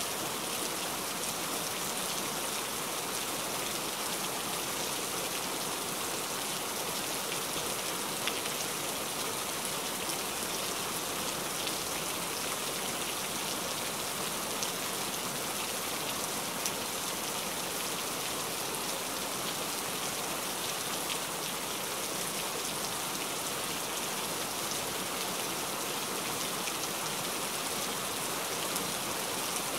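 Heavy rain falling steadily: an even hiss of rain with scattered louder drop ticks.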